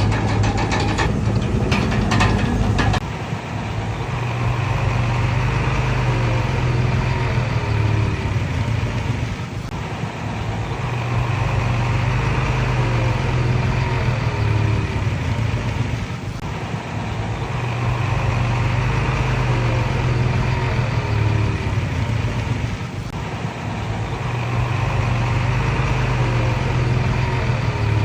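Komatsu D31PX crawler bulldozer's diesel engine running, swelling and easing in a repeating cycle about every six to seven seconds, with short gliding squeals in each cycle. There are clanks in the first three seconds.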